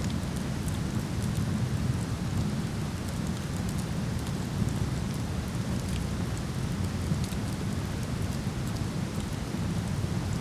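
Steady roar of a waterfall, deepest in the low range, with faint, scattered crackles from a burning wood fire.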